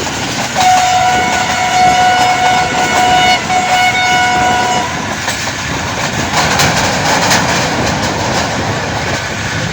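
A train horn sounds for about four seconds, starting just after half a second in, with two brief breaks. It plays over the steady rumble and clatter of a moving passenger coach's wheels on the rails.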